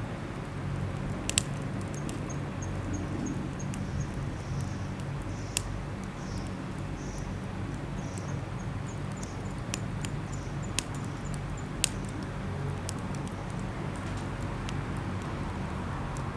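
Wood campfire crackling: sharp, sparse pops every second or two over a steady low background.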